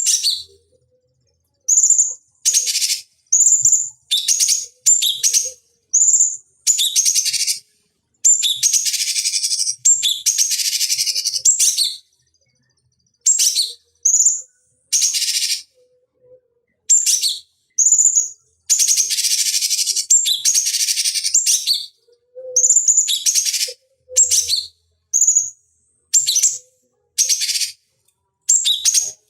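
Cucak cungkok songbird singing: a string of short, high, whistled phrases broken by clean silences, with two longer unbroken runs of rapid song lasting two to four seconds each.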